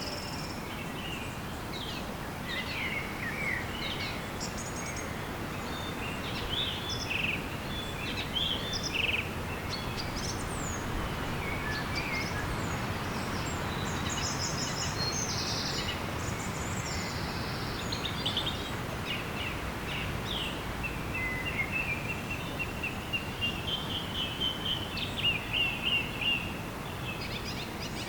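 Wild birds chirping and calling over a steady background hiss. Near the end, one bird gives a fast trill of rapidly repeated notes.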